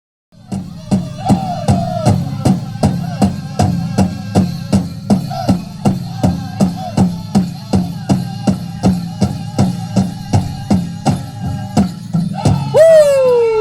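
A powwow drum beaten in a steady, even pulse of about two and a half strikes a second, with a held wavering voice line over it. Near the end a high-pitched singer's voice enters with a loud call that slides downward, starting the song.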